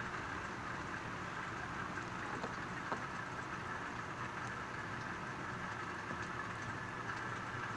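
Steady rain hiss with a few faint ticks of drops, one a little sharper about three seconds in.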